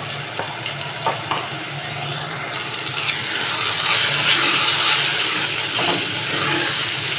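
Spring onion whites, garlic and ground spices sizzling in hot oil in a pot while a spatula stirs them. The sizzle grows louder about halfway through, and there are a few light clicks of the spatula.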